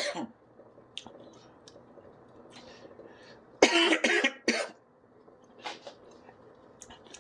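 A man coughing after eating a dried chili, its heat catching in his throat: two close coughs about three and a half seconds in, then a fainter one about two seconds later.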